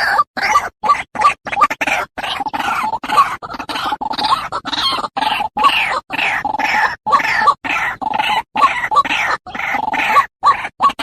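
White-breasted waterhen calling: a rapid, unbroken string of harsh croaking notes, about two or three a second, broken by short clean silent gaps.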